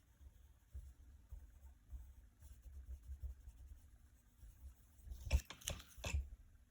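Coloring on paper: soft, irregular scratching strokes as a shape is filled in, with a few louder clicks and scrapes about five seconds in.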